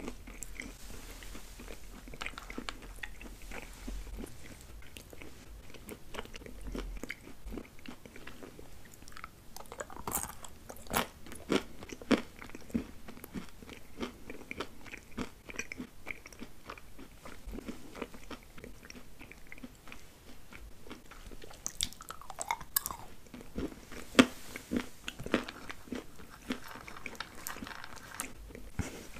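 Close-miked chewing and biting of chocolate-coated sweets, with moist mouth sounds and crisp cracking crunches that come in two flurries, about ten seconds in and again past twenty seconds.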